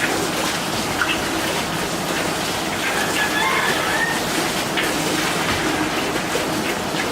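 A bird calls briefly, about three seconds in, over a steady noisy hiss.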